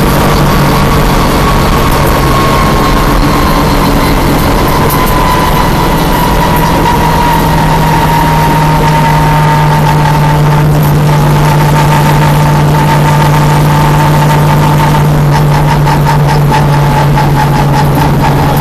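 Stock car's V8 engine running at speed, heard from inside the cabin: a loud, steady engine note with a high whine that drifts slowly lower in pitch.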